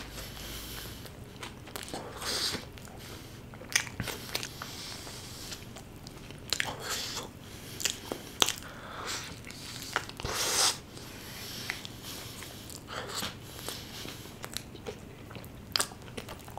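A person chewing and biting into a chicken momos burger, with irregular wet mouth clicks and short crunches.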